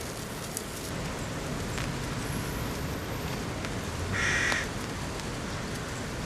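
A crow caws once, briefly, about four seconds in, over a steady hiss of rain.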